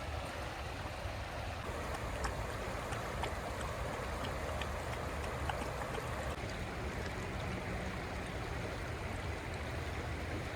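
Steady rushing of flowing water, with a low rumble underneath and a few faint ticks.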